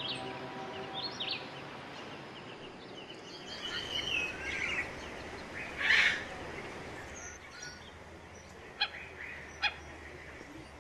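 Wild birds calling across a mangrove lagoon: scattered chirps and whistles, a louder call about six seconds in, and a few sharp short calls near the end. Soft background music fades out in the first couple of seconds.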